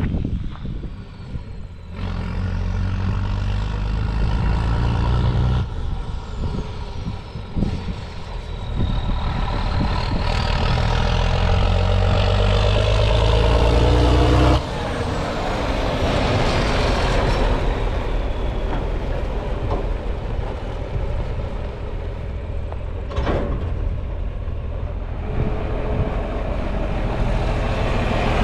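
Heavy farm-machine engine running and revving, building steadily to a peak about 14 seconds in, then dropping off suddenly and settling to a steady run, with faint high whines rising and falling above it.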